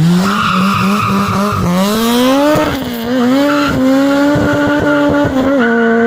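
Honda K24 four-cylinder engine revving hard under full-throttle acceleration with some tire squeal. The pitch climbs, dips sharply about two seconds in, climbs and holds high, then dips again near the end.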